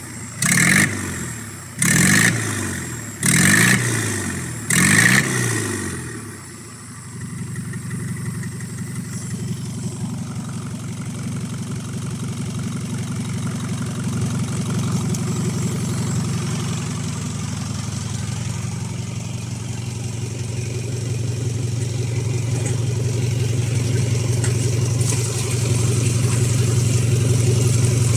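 Isuzu 4HF1 4.3-litre four-cylinder diesel engine revved in four quick throttle blips over the first five seconds, each rising and falling back. It then settles into a steady idle that grows a little louder toward the end.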